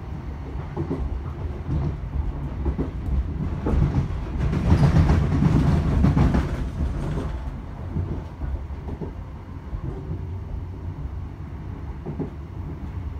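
Interior of a moving Class 321 electric multiple unit: a steady low rumble from the wheels and running gear, with irregular clicks and knocks over the track. About four seconds in it grows louder into a rushing rattle for roughly three seconds, then settles back to the rumble.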